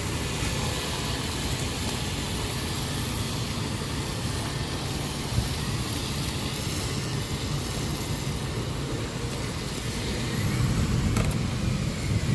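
Steady low rumble of road traffic, swelling louder about ten seconds in as a vehicle passes close.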